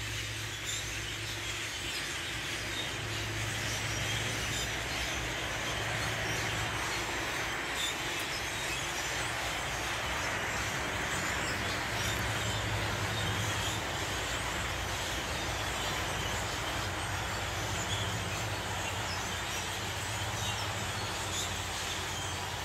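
Many birds of a large flock calling all at once, a dense, continuous chattering chorus that swells in the middle.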